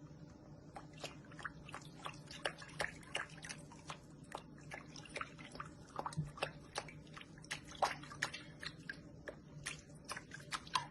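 Faint, quick, irregular clicks and smacks from a cat's mouth, a few a second, over a low steady hum.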